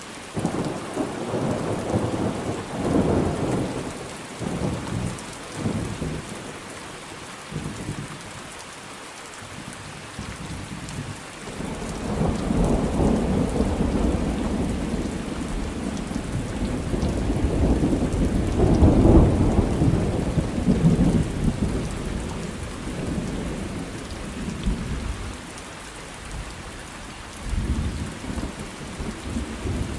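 Steady rain with rolling thunder: a rumble in the first few seconds, then a longer, louder peal swelling from about twelve seconds in and peaking near twenty seconds before it fades.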